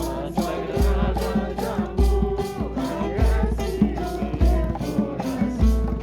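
A group singing a hymn, accompanied by maracas shaken in a steady beat of about three strokes a second and a low bass note about once a second.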